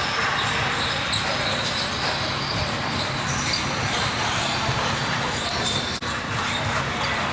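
Basketballs bouncing on a gym floor over the steady background noise of a gymnasium, with a brief dropout in the sound about six seconds in.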